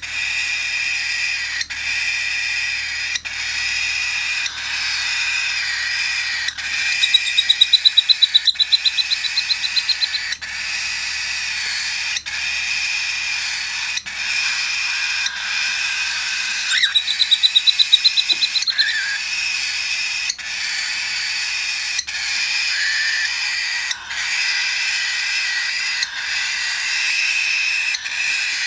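Cockatiel chick's raspy, rhythmic begging calls, repeating steadily. Twice they break into a louder, rapid pulsing chatter lasting a couple of seconds, about a quarter of the way in and again just past halfway.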